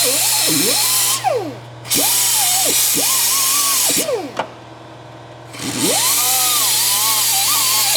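Handheld power tool running in trigger bursts, its motor winding up in pitch, holding, then winding down. It stops twice, about a second in and again around four and a half seconds in.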